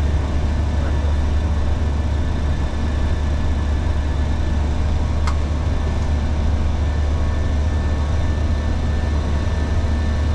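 Steady cockpit noise of a Boeing 737 in the climb after takeoff: airflow and engine drone with a strong low hum. A single faint click about five seconds in.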